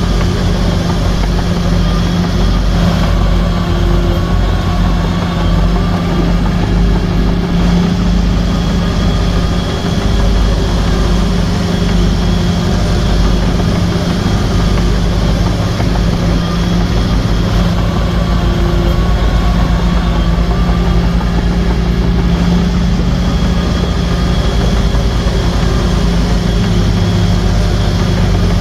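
Heavy diesel engine of a bulldozer running steadily, a constant low drone.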